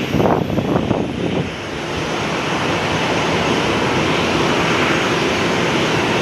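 Strong gusty wind buffeting the microphone in the first second or so, settling into a steady rushing roar.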